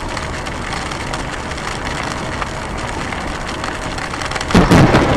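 Steady hiss of heavy rain. About four and a half seconds in, a nearby lightning strike sets off a sudden loud thunderclap that starts to crackle.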